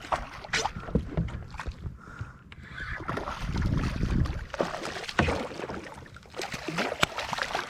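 Scattered knocks, clicks and small water splashes around a plastic fishing kayak as a small snook is handled, with a low rumble of wind on the microphone swelling about three to four seconds in.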